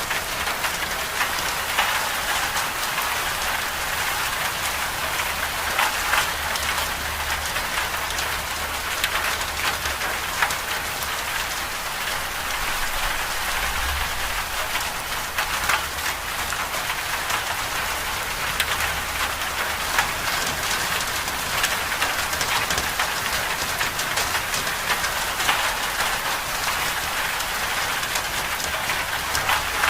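Winter storm ambience: a steady hiss of precipitation pattering on a surface, with scattered sharp ticks and a low rumble underneath that swells briefly about halfway through.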